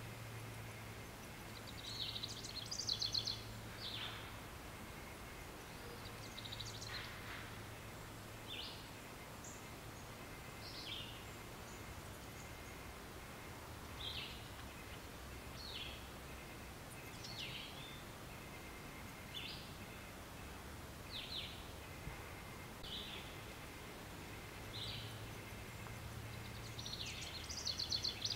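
Nature ambience of birds calling: short high chirps about every two seconds, with a burst of rapid trilled notes a couple of seconds in and again near the end, over a faint low hum that comes and goes.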